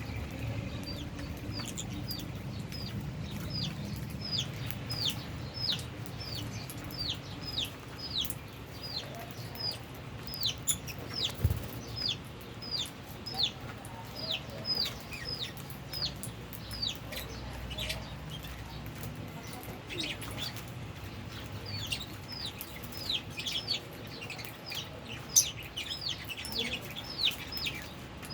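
Lovebirds in an aviary chirping: a steady run of short, high, downward-sliding chirps about twice a second over a low background rumble, thinning out briefly about two-thirds of the way through.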